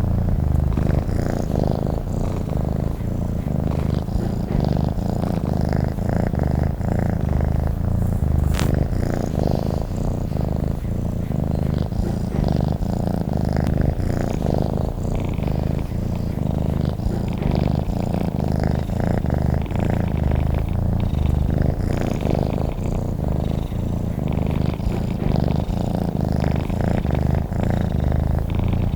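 Domestic cat purring steadily and continuously, a low rapid rumble close to the microphone.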